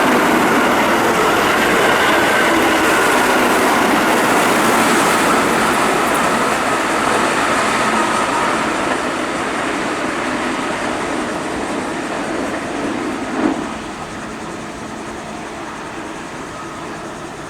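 Keihan 8000 series electric train passing at speed, wheels running on the rails. It is loud at first and fades away slowly, with a high steady tone that drifts slightly lower. There is a brief louder bump about thirteen seconds in.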